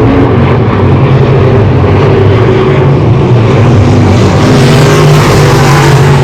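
Race car engines running loud and steady, several cars at once, their engine notes overlapping as the field circles the track.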